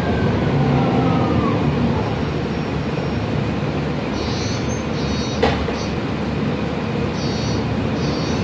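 Cabin noise of a Mercedes-Benz Conecto CNG city bus under way: a steady engine and road rumble. Near the start, the whine of the Voith automatic gearbox falls in pitch and fades. A single sharp click comes about halfway through.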